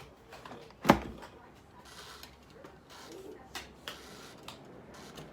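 Air fryer being handled and set: one sharp clack about a second in, then a few light scattered clicks.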